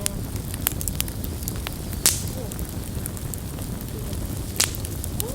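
Campfire burning, its wood crackling and popping over a low steady rumble, with two louder pops about two seconds in and near the end.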